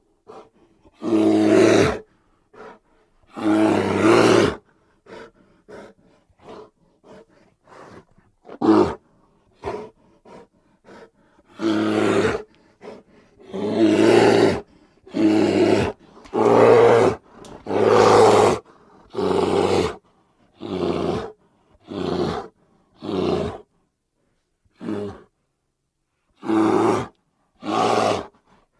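Grizzly bear roaring repeatedly, a string of about fifteen deep roars each lasting around a second. Short, quieter grunts fall between the roars in the first third.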